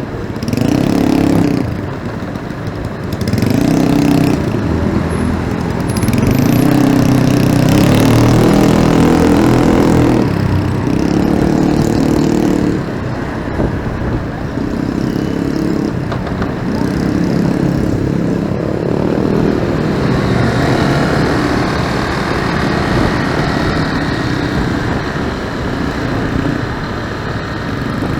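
Motorcycle engine running in busy road traffic, the throttle opening and easing off again and again so the engine note swells and drops every second or two, over a steady hiss of road and wind noise.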